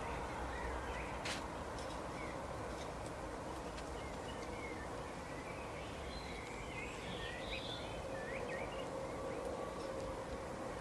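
Small garden birds chirping and calling, with short sweeping notes scattered through, busiest in the second half, over a steady outdoor background rumble.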